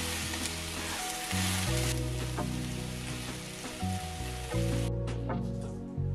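Spinach and onion sizzling in oil in a frying pan, a steady frying hiss that cuts off abruptly about five seconds in. Soft background music plays underneath.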